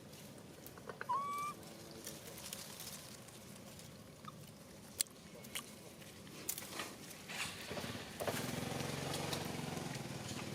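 Outdoor ambience with scattered light clicks and a single short, high call about a second in. Near the end a small engine starts up and keeps running steadily.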